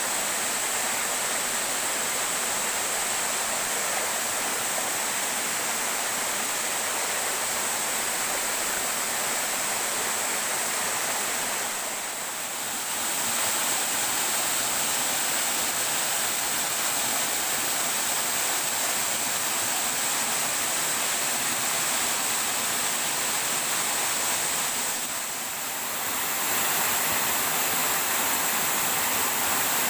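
Waterfall water falling and rushing, a steady, even noise with two brief dips in level, about twelve seconds in and again near twenty-five seconds.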